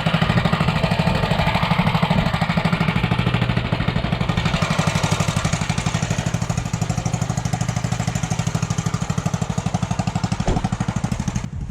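Predator 212 Ghost single-cylinder four-stroke minibike engine running steadily, with a rapid, even pulsing beat.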